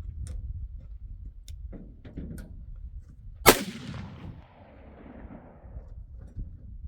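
A single gunshot about halfway through, followed by a long echo that rolls away over a couple of seconds. A few small clicks come before it.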